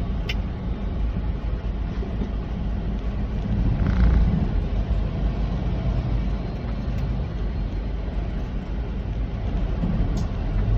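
Inside the cab of a Kenworth semi truck on the road: the diesel engine's steady low drone with road and tyre noise, swelling briefly louder about four seconds in.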